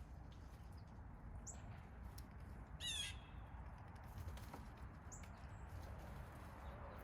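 A bird gives one short, harsh call about three seconds in, with a few faint high chirps from small birds before and after it, over a steady low background rumble.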